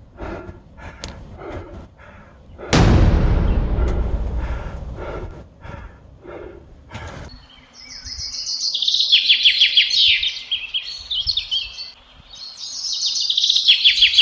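Wild birds singing, with repeated high chirps and quick trills in the second half. Earlier there is a run of short rhythmic scuffs and a loud rushing burst about three seconds in.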